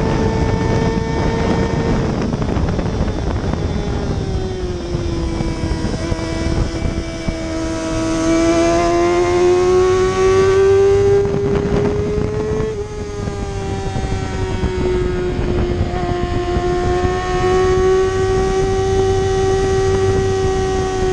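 Superbike engine running hard at high revs, with wind rush. The pitch sags over the first few seconds, climbs steadily, then drops sharply about 13 seconds in, as on a gear change, and holds fairly steady after.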